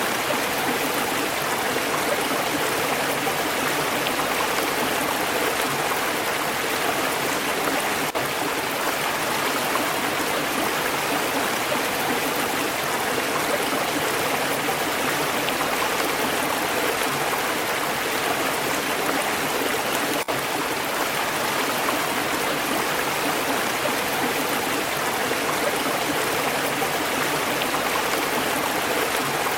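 Stream water flowing and burbling over rocks, a steady, even rush.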